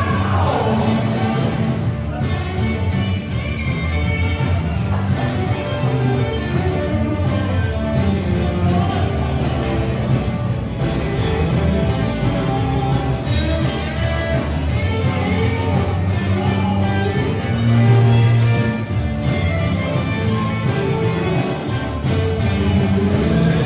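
Live rock band playing a song, with a steady drum beat, guitar and singing.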